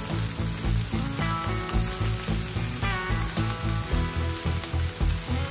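Raw beef burger patties sizzling on a hot flat-top griddle plate, a steady frying hiss. Background music with a steady bass beat plays throughout.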